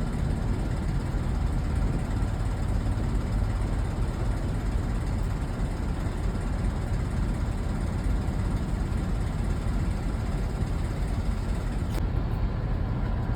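Steady low rumble of a semi truck's diesel fuelling at the pump: the engine idling while fuel runs into the tank, with a single click near the end.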